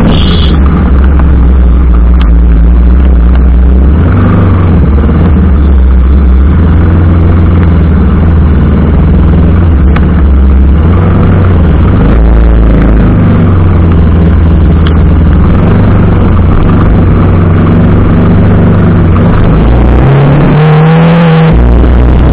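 TVS Apache RR 310's single-cylinder engine running loud and steady while riding, its note rising and falling with the throttle. A brief higher tone sounds near the end.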